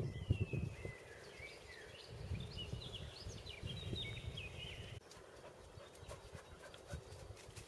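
A songbird singing a quick, varied phrase of chirps and whistled glides, running for about five seconds, over irregular low rumbling thumps.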